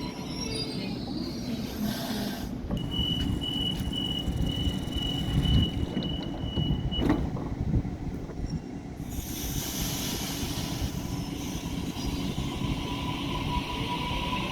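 Train running on the rails with a steady low rumble. A high, steady squeal runs from about three seconds in to about seven seconds and ends with a sharp knock.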